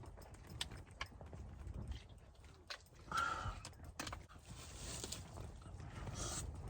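Light clicks and knocks of cooking gear being handled, with a brief squeak about three seconds in and a couple of short rustling hisses.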